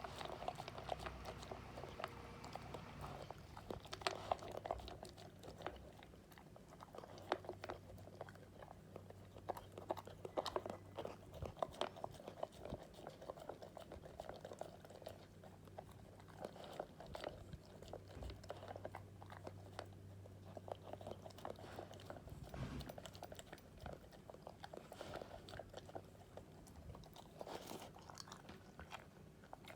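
Akita dog eating its breakfast: steady, irregular chewing and crunching with frequent bites.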